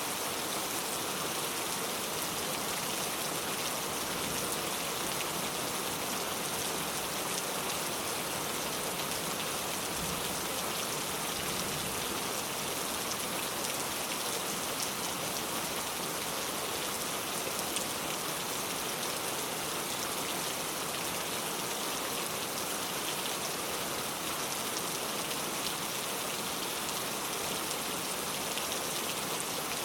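Steady rain falling: an even hiss of many small drops that does not let up.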